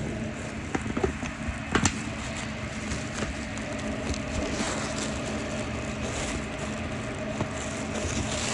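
Steady mechanical hum and rumble, like a fan or motor running, with a few sharp clicks and crackles near the start.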